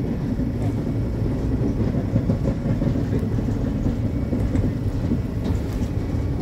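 Road-rail vehicle running on the railway track, its engine giving a steady low rumble with a few faint clicks.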